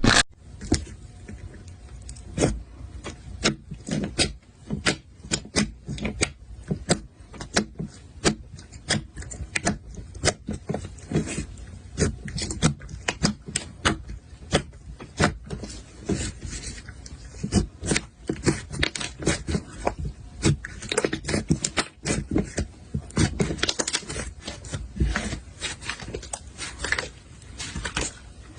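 Slime being worked by hand, with a quick, irregular run of sharp sticky clicks and pops, several a second.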